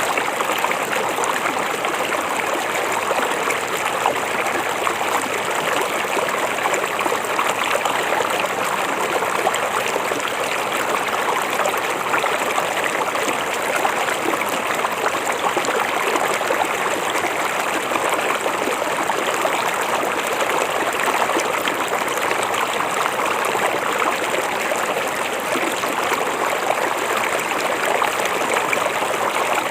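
River water flowing steadily, a continuous rushing babble without pauses.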